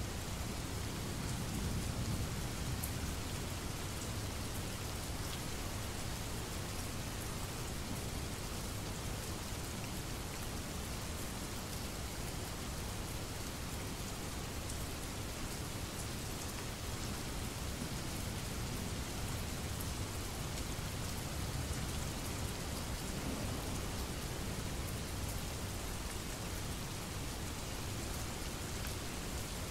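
Steady rain, with a low rumble of distant thunder about two seconds in.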